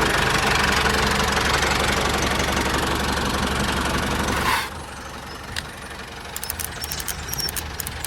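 Tractor engine running steadily, then dropping away sharply about four and a half seconds in, leaving a quieter rumble with a run of faint ticks near the end.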